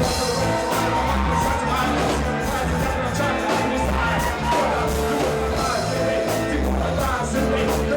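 Live reggae band playing at a steady tempo, with bass and drums keeping an even beat and a voice or lead line singing over them.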